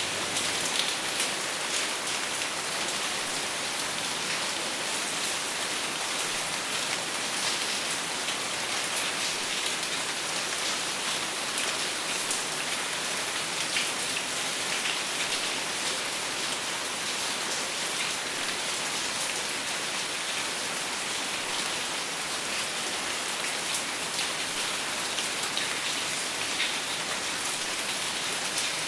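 Steady rain falling without thunder, an even hiss with many small drop ticks on a surface.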